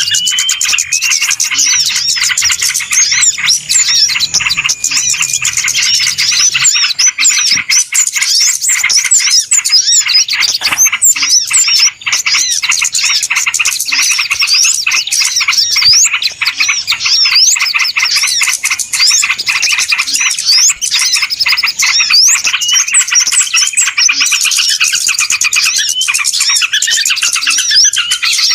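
Many small birds chirping and twittering at once in a dense, unbroken chorus of rapid, overlapping high calls: a noisy bird-lure (pikat) call recording.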